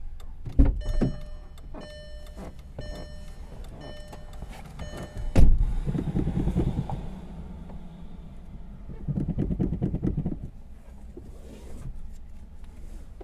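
Inside a Volkswagen Jetta cabin: a warning chime rings over and over, about once a second, then a door shuts with a loud thump about five seconds in. Two spells of low pulsing rumble follow.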